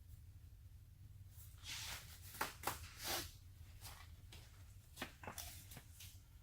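Light handling noises while measuring sheet metal: a scatter of short clicks and scrapes in two clusters, about a second and a half in and again about five seconds in, over a steady low hum.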